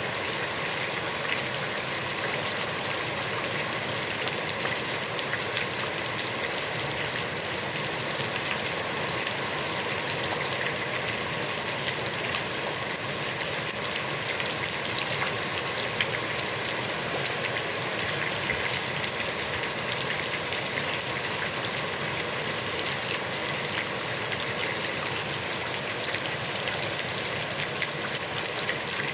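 Heavy rain falling steadily onto a pond's water surface, a dense even hiss with many small drop splashes.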